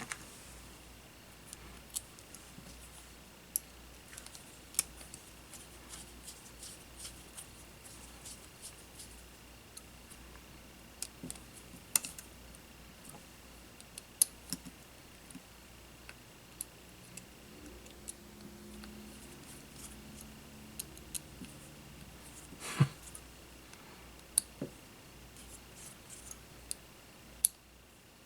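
Small hand tools clicking and snipping at a work bench during a drone frame repair, in scattered short sharp clicks with a louder knock about two-thirds of the way through. A faint steady high tone runs under them and stops near the end.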